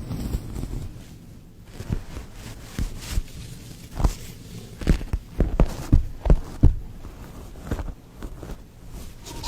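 Close-miked ASMR trigger sounds: soft, irregular taps and knocks with light rustling, the taps coming thicker and sharper in the second half.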